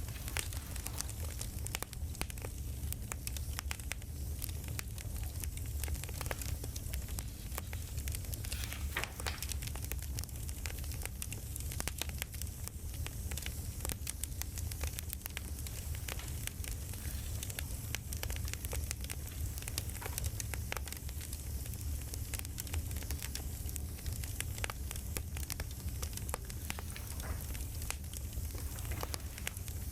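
Campfire crackling: a steady scatter of small pops and snaps over a low, even rumble.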